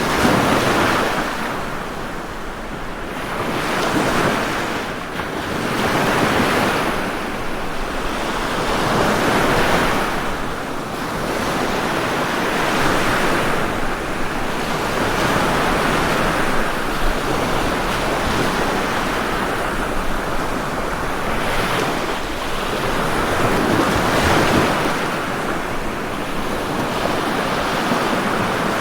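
Ocean waves breaking and washing on a shore, a continuous surf that swells and eases every two to three seconds.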